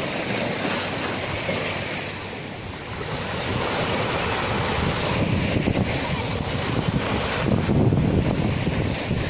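Sea waves washing onto the shore: a steady rush of surf that eases a little about two seconds in and then builds again, with wind buffeting the microphone.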